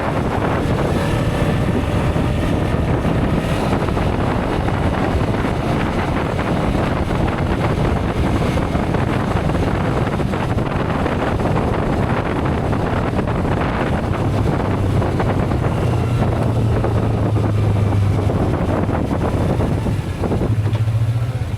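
Motorcycle ride: wind rushing over the microphone with the engine running underneath. About two-thirds of the way through the wind eases and the engine's steady low hum comes to the fore.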